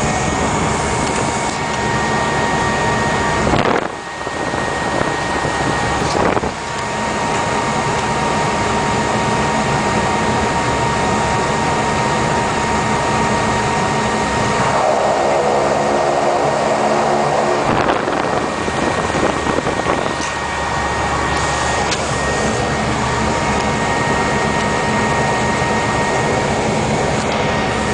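Cessna Grand Caravan's single turboprop engine running at takeoff power, a steady high whine over a broad roar. A brief pitched tone joins it about halfway through.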